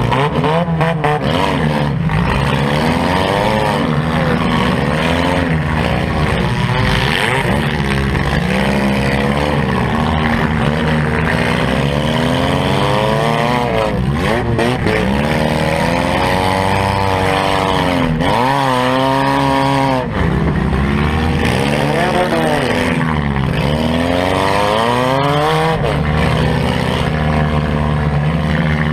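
Compact demolition derby car's engine revving up and down over and over as it is driven hard, heard from inside the stripped cabin, with a few sharp knocks along the way.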